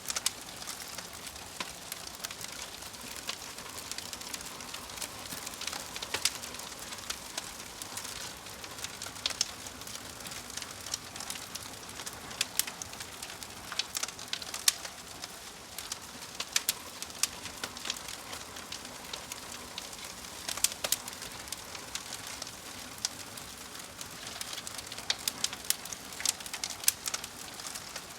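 Wood fire crackling, with a steady hiss and frequent sharp, irregular pops and snaps.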